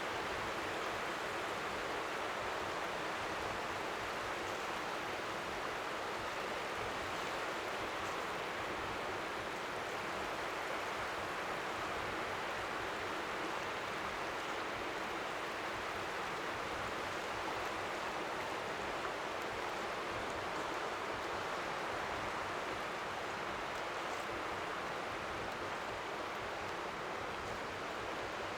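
Steady, even hiss of strong wind at the seashore, with faint waves lapping beneath it, sounding like white noise.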